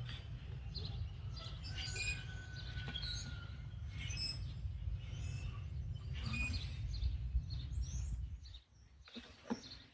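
Small birds chirping and whistling in short calls over a steady low rumble; the rumble drops away near the end, leaving a few faint clicks.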